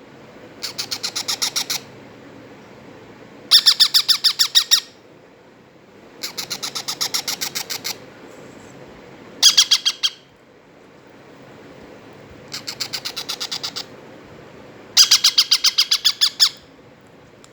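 Indian ringneck parrot chicks, about three weeks old, giving rapid pulsed begging calls in six bursts about a second long, roughly eight pulses a second, with pauses between. The bursts alternate louder and softer.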